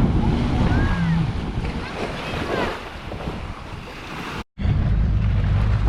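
Wind buffeting the microphone over waves and splashing water, with faint distant voices. About four and a half seconds in, the sound cuts out for an instant and a steady low engine hum takes over.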